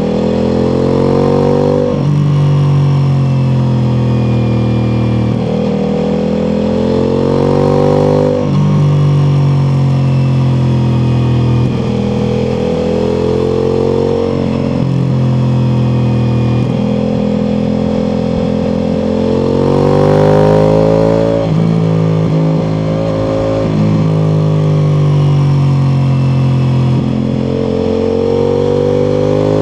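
Ducati Multistrada V4 Pikes Peak motorcycle's V4 engine through an Akrapovic exhaust, accelerating hard again and again. The pitch climbs and then drops abruptly at each upshift, with some slower falls as the rider rolls off, and a steady hiss of wind rides over the engine.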